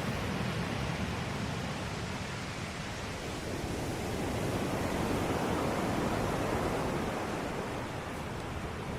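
Ocean waves washing ashore in a continuous rushing surf, swelling to a crest about halfway through and easing off again.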